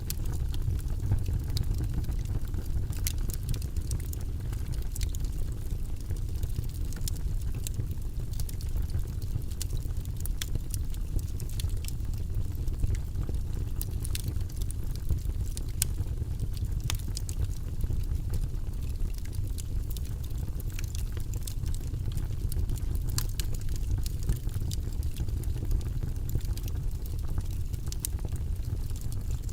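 Wood fire burning in a fireplace: a steady low rumble of flames with frequent sharp crackles and pops from the burning logs, scattered irregularly.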